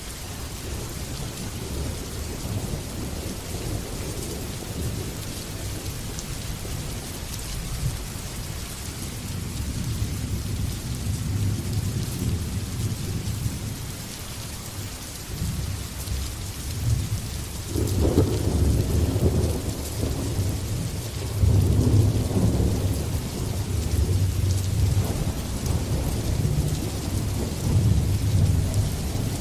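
Steady rain hissing, with thunder rumbling low underneath; the rumbling builds through the middle and a louder peal breaks about eighteen seconds in, followed by further rolling rumbles.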